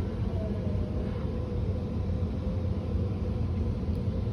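Steady low rumble of background noise with a faint hum and no distinct events.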